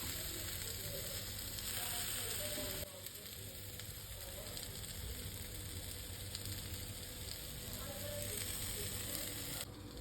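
Food frying in a hot pan, a steady sizzling hiss that drops abruptly in level about three seconds in and again near the end.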